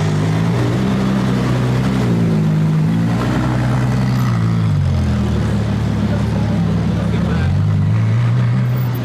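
Car engine and exhaust held at raised revs, its low note shifting up and down in slow steps, settling at a lower pitch about five seconds in before rising again near the end.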